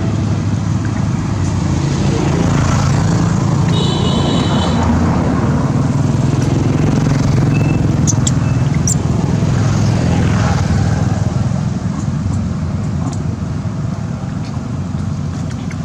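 A motor engine running with a steady low drone whose pitch wavers slightly. A brief high-pitched chirp comes about four seconds in.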